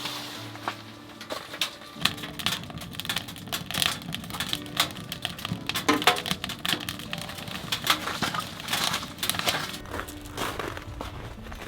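Firewood crackling and popping in a wood-burning stove: dense, irregular sharp snaps, with soft background music underneath.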